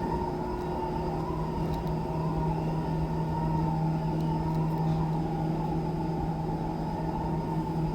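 Deep subway escalator running: a steady mechanical hum with a constant low tone that doesn't change over the whole stretch.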